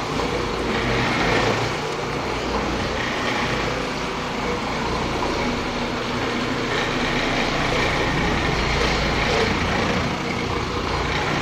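Oreck orbital floor machine running steadily as it pre-scrubs carpet, a continuous motor hum with a scrubbing rush over it.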